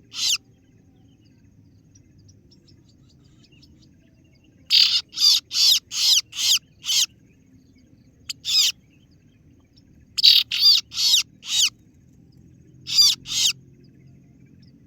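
Kaso-kaso bird lure call: loud, sharp "ciet ciet" calls in quick runs of several, with short pauses between the runs. These are the calls used to draw in a rival bird.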